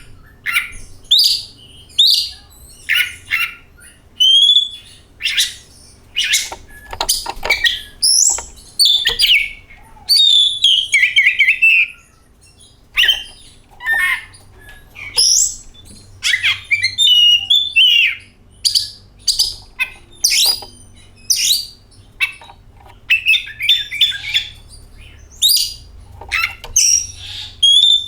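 Oriental magpie-robin singing a loud, varied song: whistled phrases, quick chattering notes and sliding notes, one phrase after another with short pauses.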